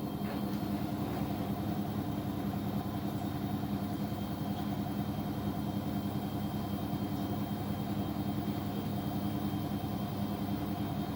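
Washing machine running, a steady low motor hum that holds the same pitch throughout.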